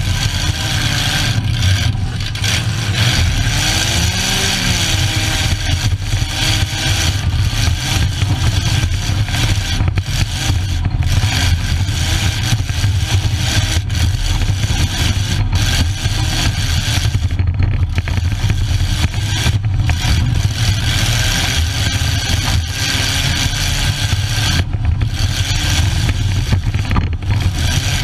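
Bump-and-run derby car's engine running hard, heard from inside the stripped cabin, revving up and down as the car is driven.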